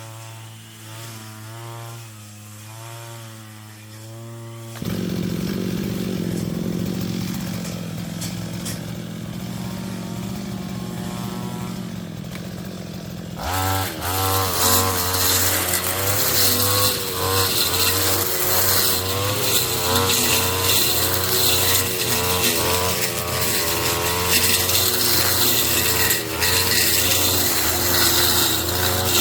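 Brush cutter engine running while clearing weeds, its pitch wavering. It is quieter at first, jumps louder about five seconds in, and jumps louder again about halfway through.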